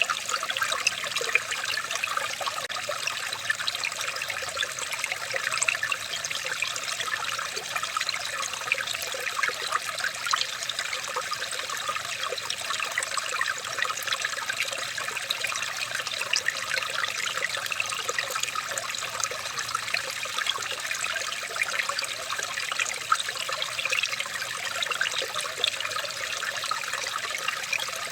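Running water trickling and splashing steadily, a dense patter of small droplets.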